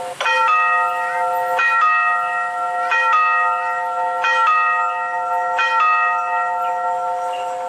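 Railway level-crossing warning bell sounding its chime: a loud bell-like chord re-struck about every 1.3 seconds, signalling that a train is approaching.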